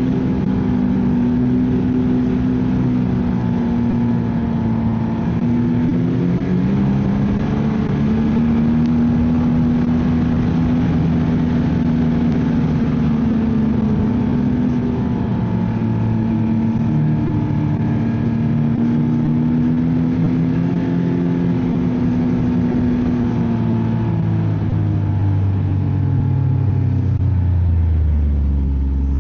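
Ski-Doo snowmobile engine running at trail speed, its pitch holding steady with small rises and dips, then falling over the last few seconds as the sled slows.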